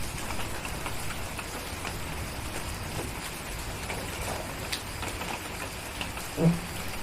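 Steady rain falling, with scattered small drip ticks and crackles, and one short, louder low thump about six and a half seconds in.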